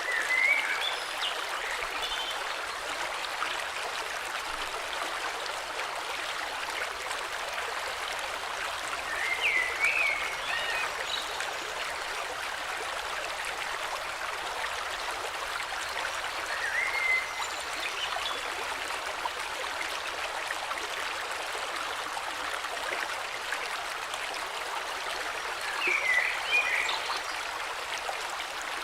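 A flowing river or stream rushing steadily, with a bird singing short chirping phrases over it four times.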